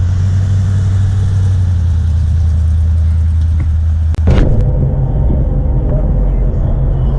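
Loud, steady low rumble of a car engine idling close by. About four seconds in it changes abruptly to another engine's rumble with a faint steady whine above it.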